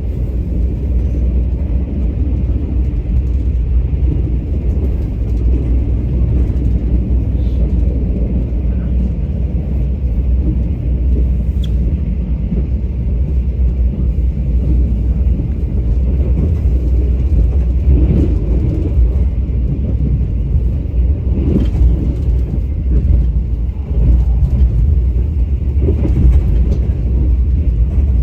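Train running, a steady low rumble with a few faint knocks from the wheels and carriage.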